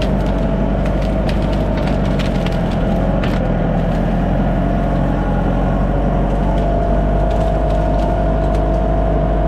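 Bobcat skid steer engine running steadily under load, with a steady hydraulic whine over its low hum. Branches and wood crack and snap several times in the first few seconds as the machine works the tree debris.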